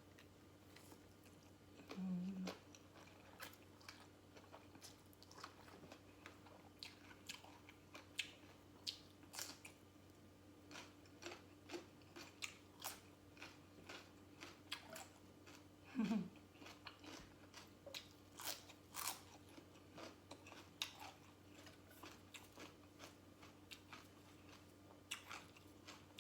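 Close-up chewing and crunching of Lao papaya salad (shredded green papaya) and raw vegetables, a steady run of small crisp bites and mouth clicks.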